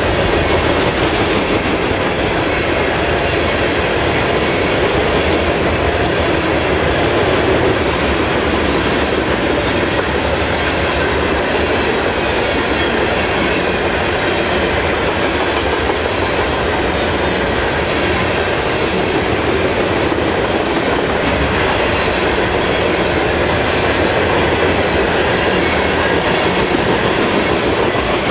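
Coal train's open-top hopper cars rolling past at close range: a steady rumble and clatter of steel wheels over the rails, beginning to die away at the very end as the last car clears.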